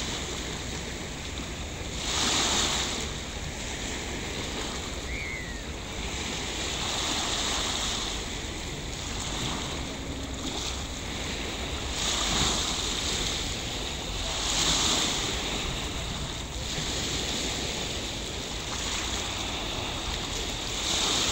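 Sea surf washing onto a beach in a steady hiss, with several louder waves breaking and swelling up now and then.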